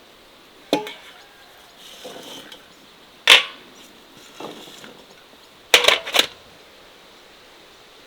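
A few sharp knocks and clacks of hard objects being handled, with a strong single knock near the middle and a quick group of three near the end, and soft scraping or rustling in between.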